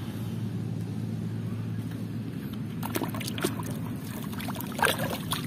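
Water sloshing as toy vehicles are washed, with a steady low hum underneath. From about three seconds in come a handful of short clicks and splashes as the plastic toys knock and move in the water.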